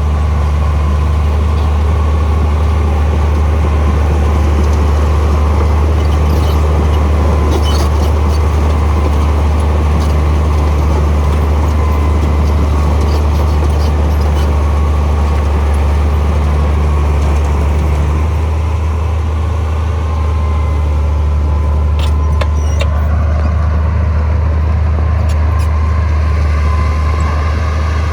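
Heavy diesel earthmoving machinery running steadily with a deep, continuous engine drone, with a few short metallic clicks and clanks now and then.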